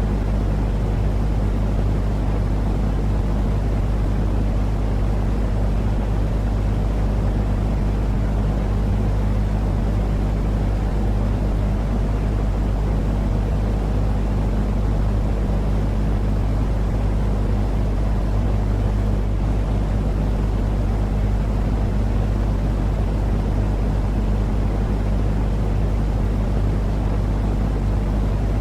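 Steady, deep rumbling sleep-aid noise for calming babies, with a low hum in it and no changes.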